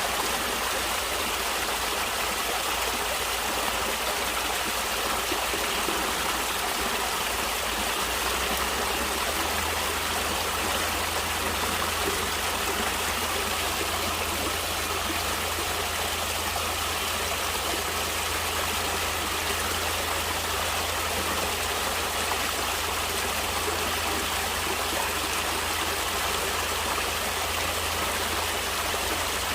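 Water flowing steadily in a stream, a continuous even rush with no breaks.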